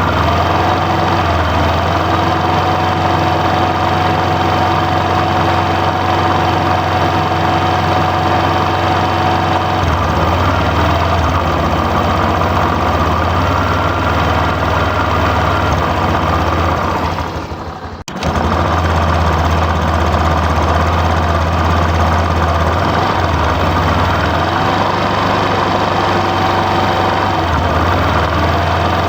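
RC construction vehicles' engine sound running steadily and loudly, with a low hum and a steady pitched note. It dips briefly about 17 to 18 seconds in, fading out and coming straight back.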